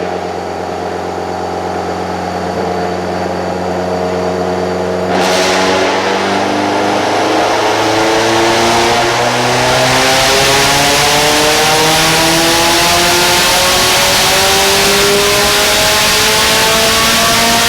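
Subaru WRX STI turbocharged flat-four running on a chassis dyno. It holds a steady speed at first, then about five seconds in goes to full throttle, getting louder, and its revs climb slowly and steadily through the rest of the pull.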